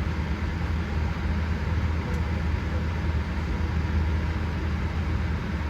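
Steady low rumble of cabin noise inside a Boeing 787-8 on the ground, with no distinct events.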